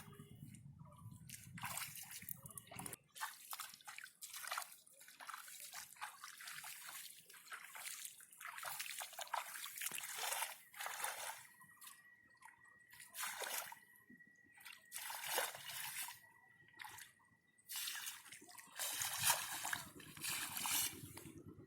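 Shallow muddy water sloshing and splashing irregularly as hands grope through it for fish.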